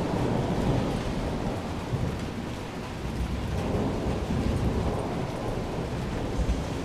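Heavy rain falling steadily under a low, rolling rumble of thunder that eases off over the first few seconds.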